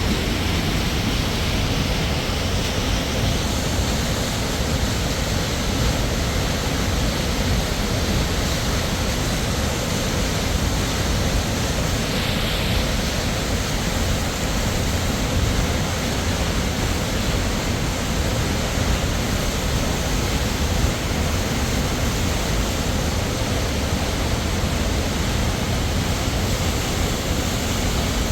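Waterfall rushing steadily, a loud, unbroken roar of falling water.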